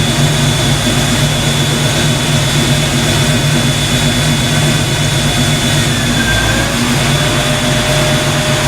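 Dual electric radiator cooling fans on a Fox Body Mustang running, a loud, steady rushing drone with a thin steady whine over it.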